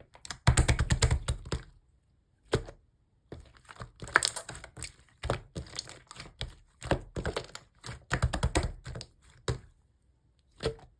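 Slime being pressed and squished by hand, crackling and popping in rapid clicks that come in bursts with short pauses between them.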